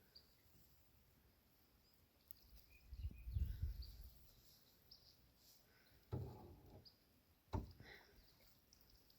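Quiet outdoor lake ambience with faint, scattered high chirps. A low rumble comes about three seconds in, a short duller sound just after six seconds, and a single sharp knock about two-thirds of the way through.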